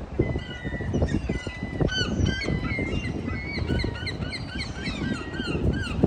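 A flock of birds calling: many short, rising-and-falling calls overlapping, getting busier about two seconds in, over a steady low rumble.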